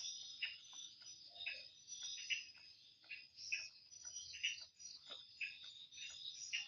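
A steady, high-pitched insect chorus, with many short chirps or ticks scattered through it.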